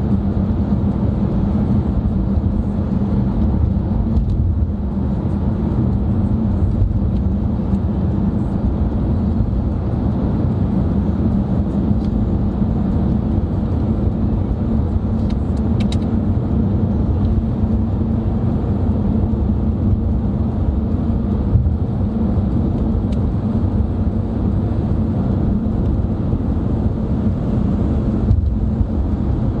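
Steady road and engine noise inside a moving car's cabin: a low, even rumble of tyres and engine at a constant speed. A faint brief click comes about halfway through.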